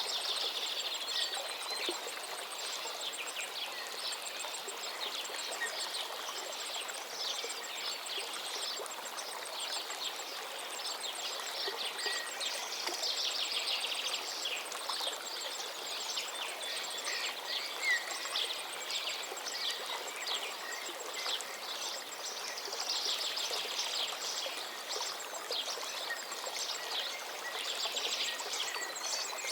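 A river flowing steadily, with many birds chirping and singing over it throughout.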